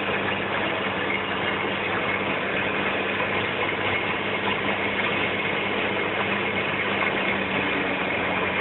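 Small Cessna's single piston engine and propeller droning steadily at an even pitch and level.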